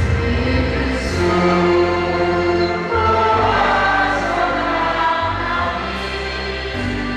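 Music: a group of voices singing together over a steady instrumental accompaniment with a sustained bass, the voices coming in about a second in.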